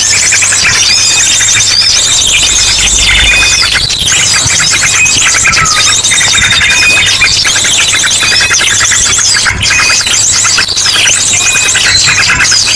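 Bird-lure recording: a noisy crowd of small birds chirping and trilling, mixed with ashy drongo calls. The same busy phrases come round again about every four seconds.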